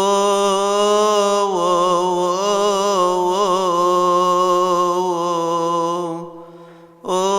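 A deacon chanting a Coptic Orthodox hymn solo over a steady low drone. One long held phrase carries melismatic ornaments in its middle and fades out about six seconds in; a new phrase starts near the end.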